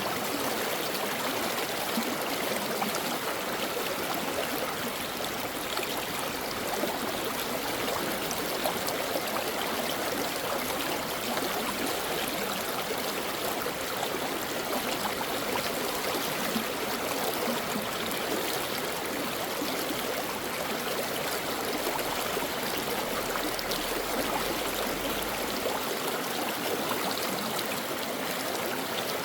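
Mountain stream flowing steadily over rocks, an even rushing and babbling of water.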